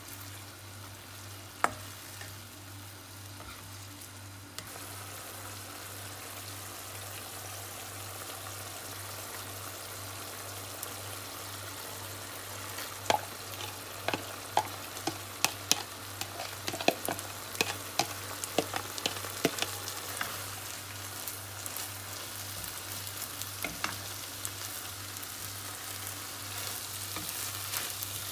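Kimchi and seafood sizzling in a nonstick wok as a spatula stirs; the sizzle grows louder about four seconds in. In the middle comes a run of sharp knocks and scrapes as cooked black rice is tipped in from a bowl and stirred through.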